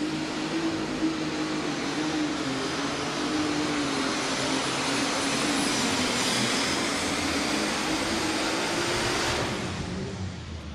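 Alcohol-burning super stock pulling tractor, a red Case IH, running flat out under full load as it drags the weight sled down the track. One wavering engine note sits inside a loud, dense roar that falls away about nine and a half seconds in, as the pass ends.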